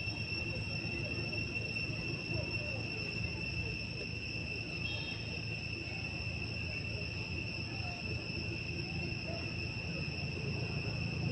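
Insects, such as cicadas or crickets, droning in one steady, unbroken high tone, over a low background rumble.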